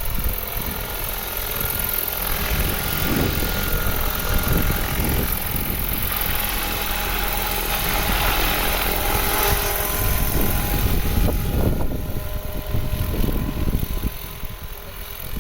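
Crop-spraying helicopter flying over the field, its rotor and engine noise growing louder through the middle and easing off near the end.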